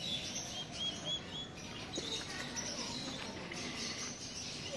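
A bird chirping four short, high notes in quick succession about half a second in, over steady outdoor background noise.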